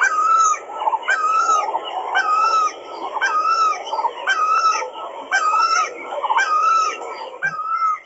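A bird calling over and over, about one call a second, each call a short, clear, pitched note.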